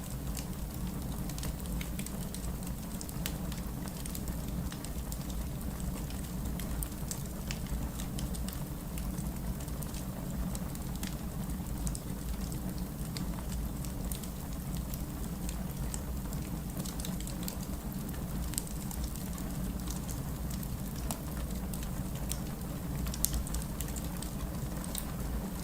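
Steady rain with a wood fire crackling close by: a constant wash of rain under scattered small pops and snaps from the burning logs, one sharper snap near the end.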